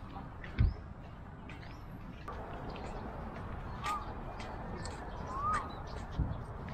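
Birds calling: short, high chirps throughout, and from about four seconds in, a clear note that rises and falls, repeated about every second and a half. A low thump comes just under a second in and another near the end, the first being the loudest sound.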